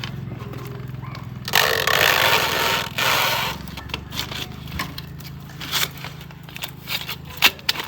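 Workshop tool noise: a loud, harsh scraping burst lasting about two seconds, then scattered knocks and clicks, over a steady low hum.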